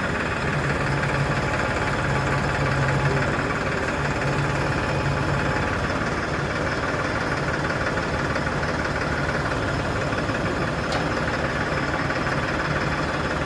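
Powertrac 47 hp tractor's diesel engine running steadily at idle, with a low hum that drops away about five seconds in.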